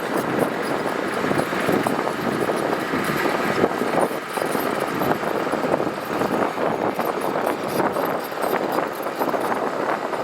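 Heavy earthmoving machinery at work on gravel: a diesel engine running steadily under load, with a continuous rough rumble and a faint steady whine.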